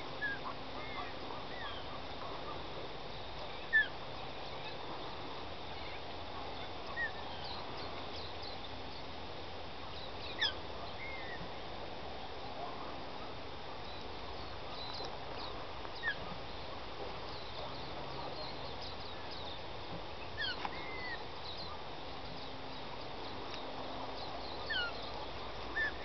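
Scattered short, high bird chirps and calls over a steady outdoor background hiss, with a few single calls standing out louder than the rest.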